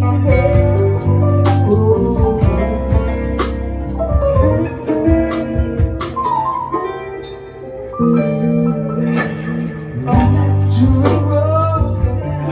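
A band playing music with guitar prominent over a steady bass line and regular percussive beats. It eases off briefly about seven seconds in, then picks up again.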